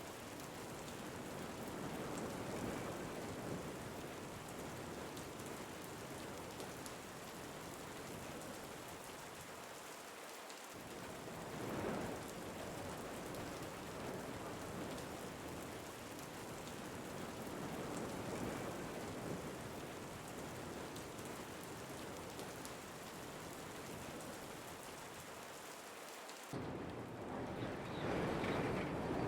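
Steady rain falling, with the rush swelling and easing every few seconds. About 26 seconds in it changes abruptly to a louder, deeper rushing.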